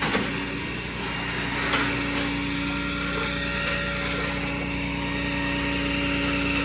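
A vehicle engine running steadily at idle, with a few faint clicks over it.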